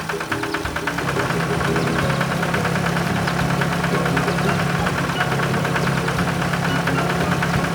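Cartoon farm-vehicle engine sound effect running steadily with a fast even chugging, settling into a steady hum about a second in.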